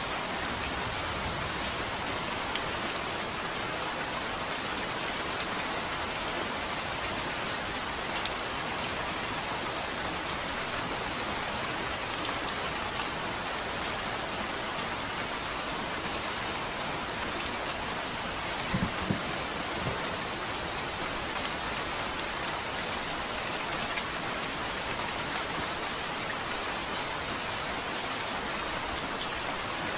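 Steady rain falling on a surface, an even hiss with scattered sharp drop ticks. About two-thirds of the way through there is one brief low thump.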